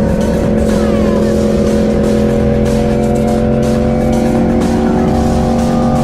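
1984 Honda Magna V65's V4 engine running hard at steady high revs through its Kerker 4-into-1 exhaust, with wind rush. The engine note dips slightly and rises again near the end.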